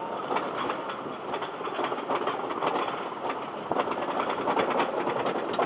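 Train of wheeled cars running along a track, with a steady clattering rattle, many quick clicks of wheels on rail joints and faint wheel squeals.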